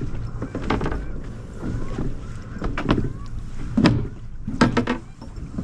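Steady wind and water rush aboard a small boat, with a handful of brief, sharp knocks about one, three and four to five seconds in.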